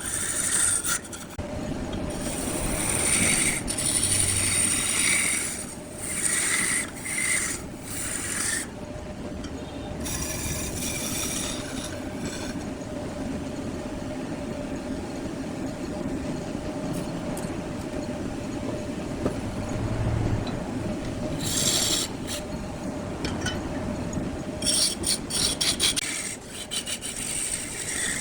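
Wood lathe running with a steady motor hum while a tool scrapes and rubs against the spinning wood block in repeated bursts, mostly in the first third and again near the end, with a steadier stretch of hum and light rubbing in between.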